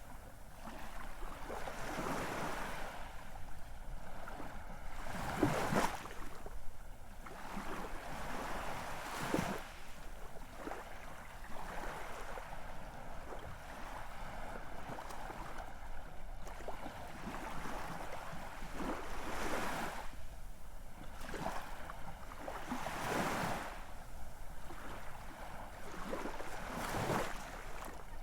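Ocean surf: waves surging and washing in, swelling and falling back at irregular intervals of a few seconds.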